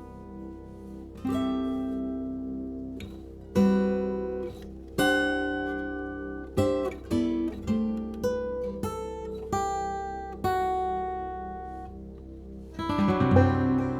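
Background music on acoustic guitar: single plucked notes ringing out and fading one after another, then a fuller strummed passage near the end.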